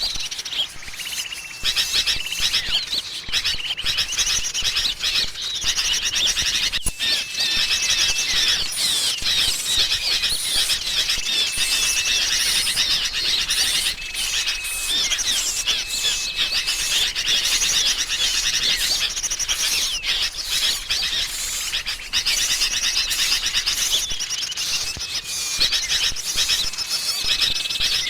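Bird-lure recording of agitated sooty-headed bulbuls (kutilang) mixed with small songbirds: a dense, unbroken mass of high chattering and chirping calls, the kind of scolding din used to draw small birds in. A flat, level whistled note recurs every few seconds over the chatter.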